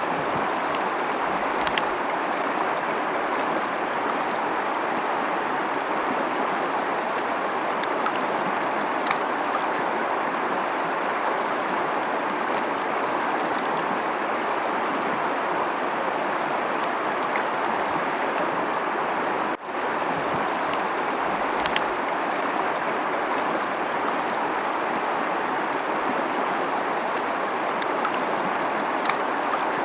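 Fast-flowing river rushing over rocks: a steady, even rush of water with faint splashes, broken by a momentary dip in level about two-thirds of the way through.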